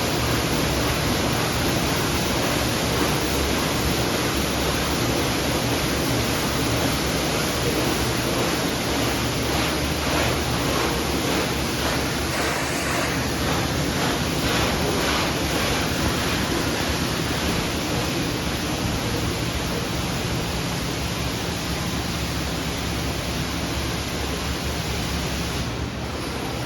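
Automatic car wash spraying water over a pickup truck: a steady, loud rush of water. A faint rhythmic pulsing runs through it for a few seconds partway through.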